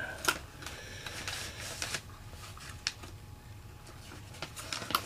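Light plastic clicks and handling noise as small parts of a fuel pump module are fiddled into place, with one sharper click soon after the start and a few smaller ones near the end.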